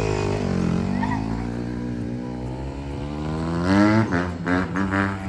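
Dirt bike engine running: its pitch drops back toward idle, holds, then rises as it is revved about three to four seconds in.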